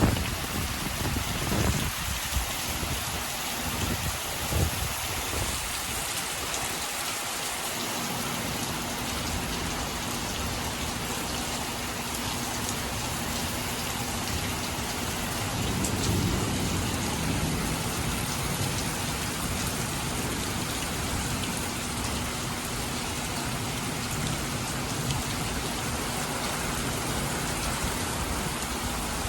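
Heavy rain pouring down steadily in a thunderstorm, with a low rumble of thunder swelling about halfway through.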